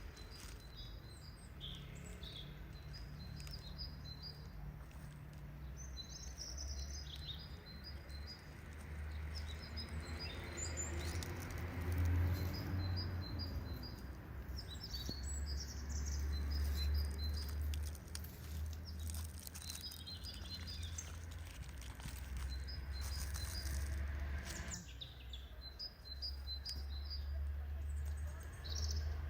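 Small birds chirping in repeated quick runs of short high notes, over a steady low rumble.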